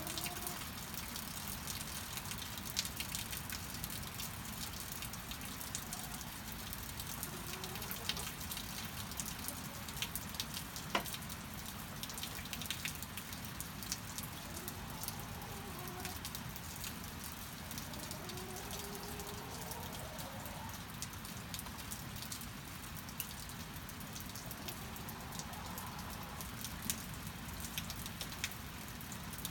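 Steady rain with frequent sharp taps of drops, and a few faint, soft chicken calls rising and falling in pitch, the longest about two-thirds of the way through.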